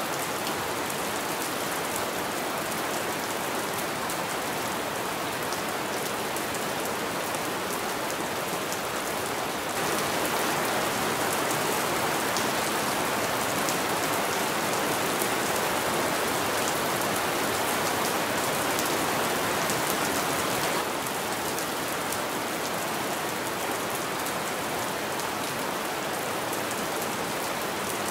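Rain falling against a window pane: a steady hiss of rain with many small drop ticks. It grows a little louder about ten seconds in and falls back about ten seconds later.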